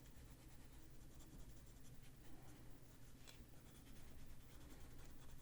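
Faint, quick back-and-forth scratching of a wax-based Prismacolor coloured pencil shading on paper.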